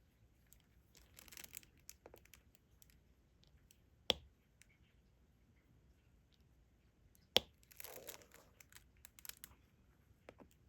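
Small handling sounds of diamond painting: soft plastic crinkling and rustling in two short spells, and two sharp clicks, about four and seven seconds in.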